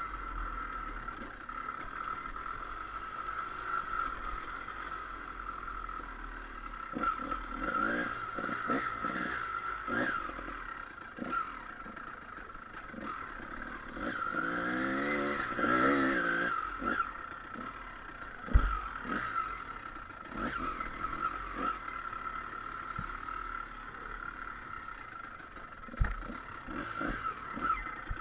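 Dirt bike engine running over rough ground, revving up with a rising pitch around the middle, with clatter and a sharp knock about two-thirds of the way through. A steady high tone runs underneath.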